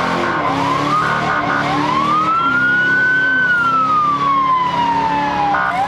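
Police car siren wailing: a short rise, then one long rise that peaks about three seconds in and falls slowly, with short choppy blips of a second tone about a second in and again at the end.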